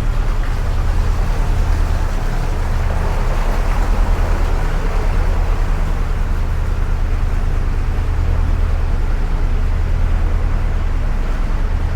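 Narrowboat diesel engine running steadily under way, with an even, rapid low beat, heard inside a canal tunnel.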